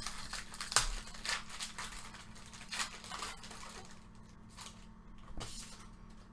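Trading cards being handled and flipped through by hand, a string of short dry rustles and clicks as card stock slides against card stock, busiest in the first few seconds.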